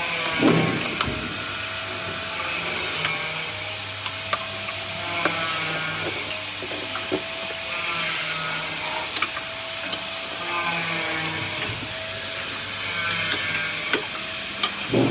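Motor-driven machine running with a steady hum, and a rubbing, scraping noise that swells and fades every couple of seconds along with light ticks. This is the abnormal noise of a motor mounted out of line with the machine's front guide.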